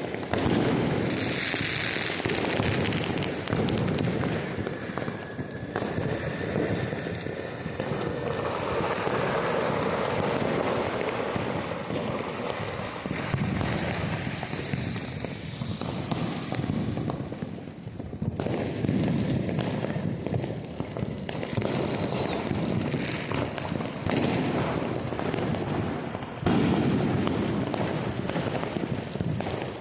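Firecrackers and fireworks going off nonstop, a dense, continuous crackle of overlapping bangs and pops with no break, growing louder near the end.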